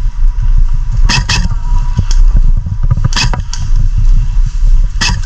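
Heavy, uneven low rumble of wind buffeting a GoPro's microphone, with a few sharp snaps: two about a second in, one around three seconds and one near the end.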